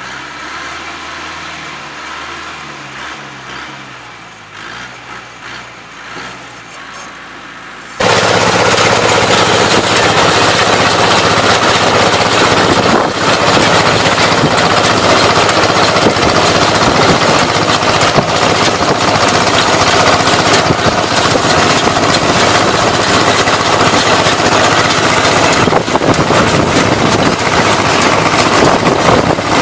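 Hay-baling machinery at work: a tractor-type engine running steadily, then about eight seconds in an abrupt switch to a much louder, dense mechanical din of a baler running.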